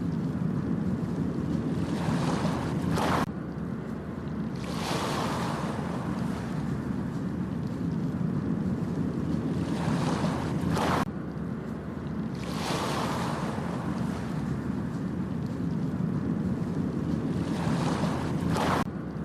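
Ocean waves breaking on a beach over a steady low rumble of surf, each wave building to a bright rush and then dropping off suddenly, about every eight seconds, three times.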